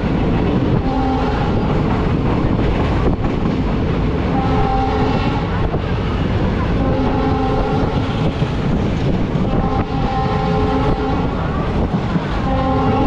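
Passenger train heard from inside its coach: a steady rumble and rattle of the wheels on the track, with the locomotive's horn sounding in several blasts of about a second each, a few seconds apart.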